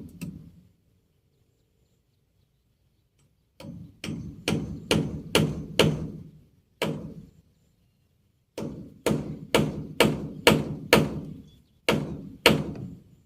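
Hammer blows on wood, in runs of five or six strikes about two a second, with short pauses between runs and single blows near the end.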